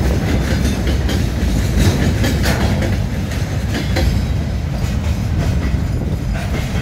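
Empty timber flatcars of a freight train rolling past, a steady rumble of wheels with irregular clicks and clacks as the wheelsets cross rail joints.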